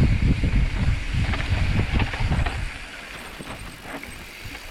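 Mountain bike riding down a dirt trail: low rumble from wind on the microphone and the tyres, with scattered clicks and rattles from the bike. It eases and turns quieter after about three seconds.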